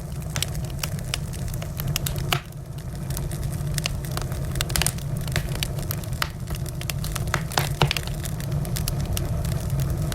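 Wood fire burning, with a steady low rumble and frequent irregular sharp crackles and pops, a few louder snaps among them.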